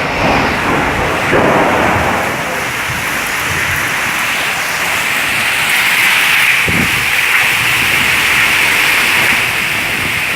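Heavy rain pouring down in a storm: a steady, dense hiss, with a brief low thump about seven seconds in.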